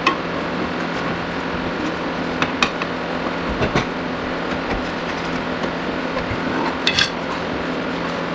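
Metal tools clinking against metal parts, a few sharp clinks and knocks, some in quick pairs, over a steady workshop hum.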